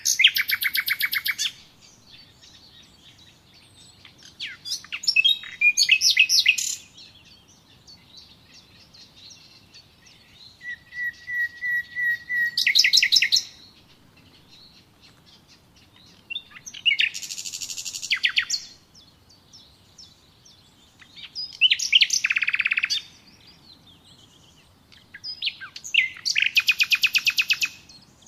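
A songbird singing: short song phrases about every four to five seconds, each a quick run of notes that ends in a fast, even trill, with quiet pauses between.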